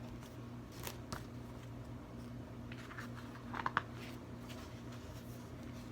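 A book's paper page being handled and turned: a few soft ticks about a second in, then a louder brief crackle of paper about three and a half seconds in, over a steady low hum.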